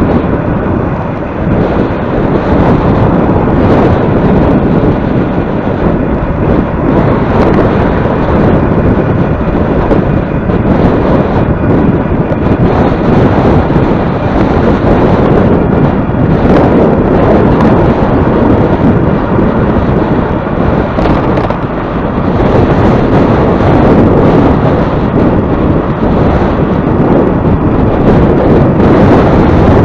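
Heavy wind buffeting the microphone while riding into a headwind: a loud, dense rumbling noise that rises and falls slightly.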